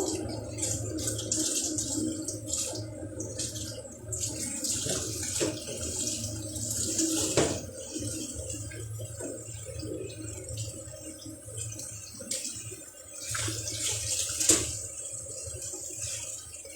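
Tap water running and splashing while dirty vacuum cleaner parts are rinsed and scrubbed by hand, with a couple of sharp knocks.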